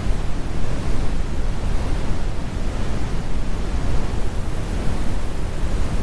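Steady brown noise, an even hiss-free low rumble with most of its energy in the bass and little treble.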